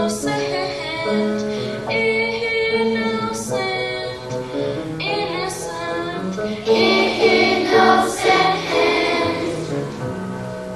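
A group of children singing a song from a school musical over instrumental accompaniment, with held notes, swelling louder about two-thirds of the way through.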